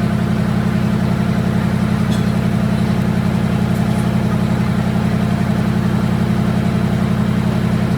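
A motor or engine running steadily with a fast, even pulse.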